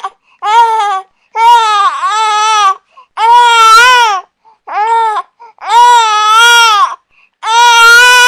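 A baby crying in a string of loud, high-pitched wails, each about a second long, with a short breath between them.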